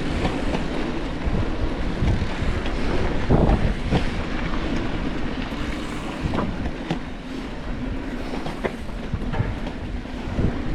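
Transition Relay e-mountain bike ridden over rough trail: tyres rumbling on dirt and rocks, with the bike rattling and knocking sharply over bumps about once a second, and wind buffeting the microphone.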